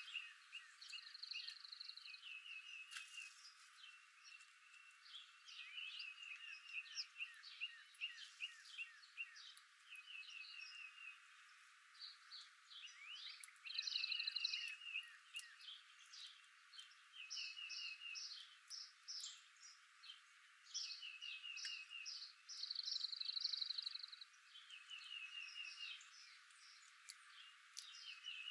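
Faint chorus of wild animal calls: many short trills of rapid pulses, overlapping and repeating, a little louder twice.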